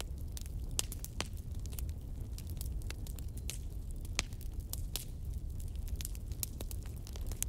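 Wood fire burning, with irregular sharp crackles and pops scattered over a steady low rumble of the flames.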